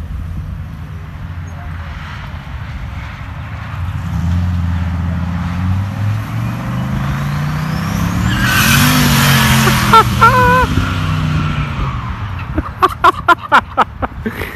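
The turbocharged LS-swapped V8 in a 1971 Chevrolet C30 truck being driven hard. Its pitch climbs under acceleration to a loud peak about nine seconds in, with a thin whistle rising along with it, then it eases off.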